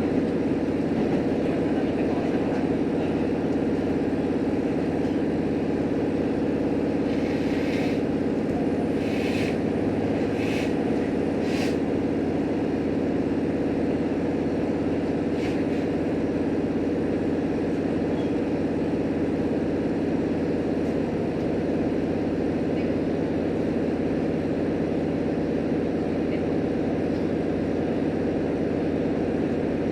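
Steady running noise inside a JR Hokkaido H100 diesel-electric railcar under way: a constant drone of the engine and wheels on rail. A few short, higher-pitched hissing sounds come between about 7 and 12 seconds in, with one more a few seconds later.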